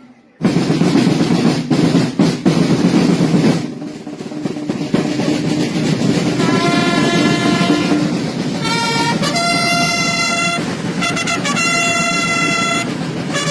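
Snare drums playing a roll for the first few seconds, then trumpets sounding long held notes from about halfway, louder and fuller near the end.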